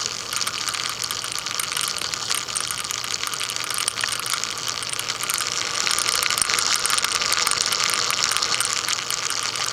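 Sony Vaio VGN-CS215J laptop's cooling fan running with a loud, continuous fast rattle over a hiss, a little louder from about halfway through: the sign of a failing fan.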